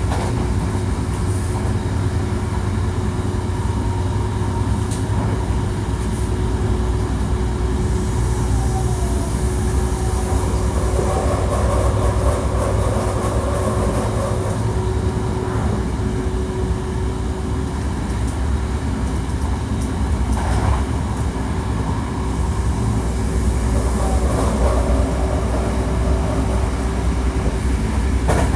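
Hankyu 1300 series electric train running at speed: a steady rumble of wheels on rail with a steady whine, which fades out a little past halfway and returns later.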